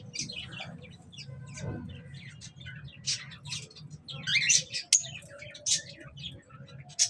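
A group of kept birds chirping, with many short, overlapping calls and a few louder ones in the middle. A steady low hum runs underneath.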